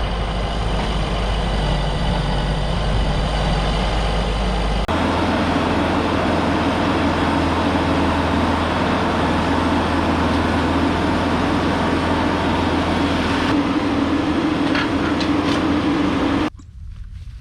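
An engine running steadily, its tone changing abruptly about five seconds in; the sound drops away sharply near the end.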